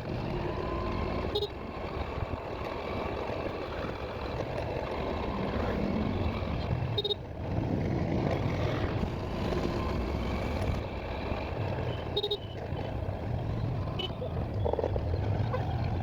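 A vehicle on the move, with steady engine and road noise and a few short, sharp knocks or clicks along the way.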